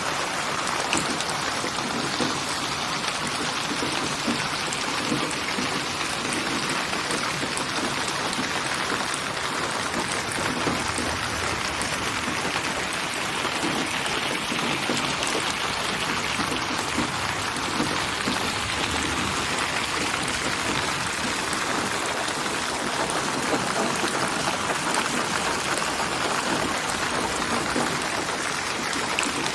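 Steady rain, dense drops falling and pattering on surfaces, a spatially panned, computer-generated rain soundscape.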